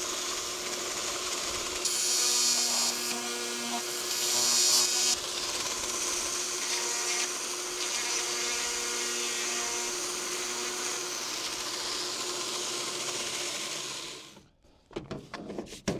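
A small electric power tool spins at high speed, its bit cutting into plastic trim to elongate screw holes. It grinds louder about 2 and 4 seconds in as the bit bites, then stops a little before the end.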